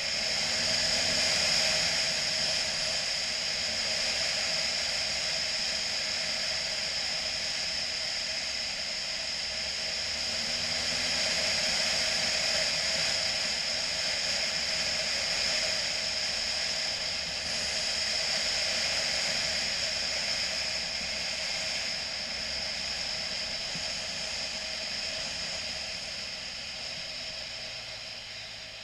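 Steady rushing wind and road noise from a moving motorcycle, swelling and easing slowly and fading near the end.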